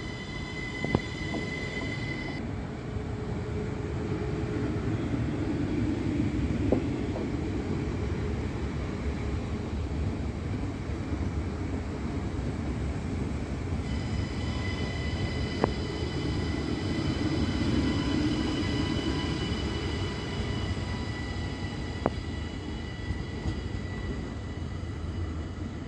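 Belgian NMBS electric multiple units running through a station, with a steady rumble of wheels on rail and a few sharp clicks from the rail joints. A high steady whine is heard in the first two seconds and again from about midway.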